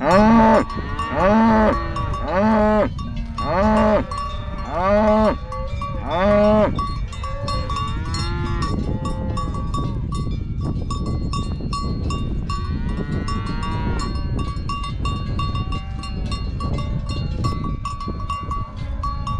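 Cows mooing in short calls that rise and fall in pitch, about one a second for the first seven seconds, then quieter, scattered calls. Cowbells clank and ring throughout.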